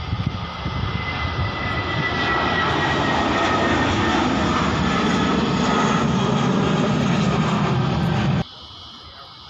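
Jet airliner engines passing close by, a loud rushing roar with a high whine that slides down in pitch over the first few seconds. The sound cuts off abruptly near the end, leaving only faint background noise.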